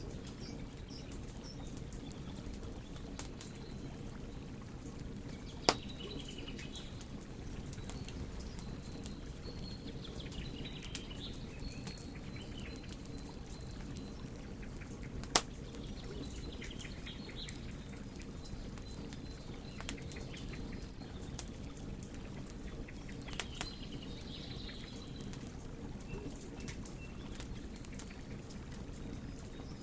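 Wood fire burning: a steady low rumble of flame with scattered small crackles, and two sharp, loud pops about 6 and 15 seconds in.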